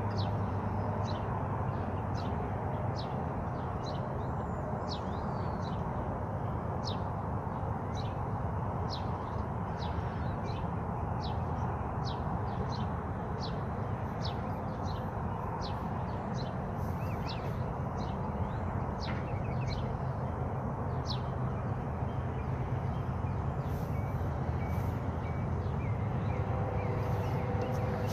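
A bird repeating short, high chirps that slide downward, about two a second, over a steady rushing background noise.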